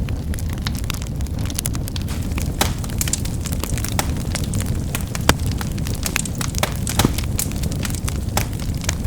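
A wood fire burning with a steady low rumble and frequent sharp crackles and pops, a few louder snaps among them.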